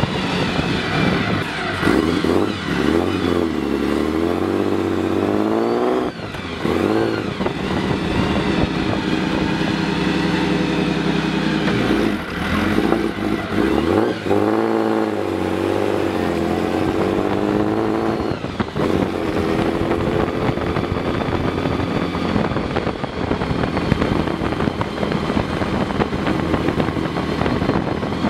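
The Alfa Romeo Monza 8C replica's engine pulling hard under acceleration, heard from the open cockpit. The revs climb and drop back at gear changes about six, thirteen and eighteen seconds in.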